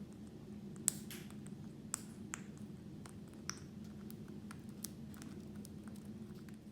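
Scattered sharp clicks and crunches of parrots' beaks working dry freeze-dried bird food, over a steady low hum.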